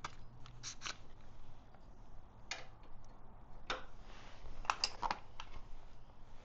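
Irregular light clicks and taps of hand tools and metal parts being handled while working a fuel pump loose on a motorcycle.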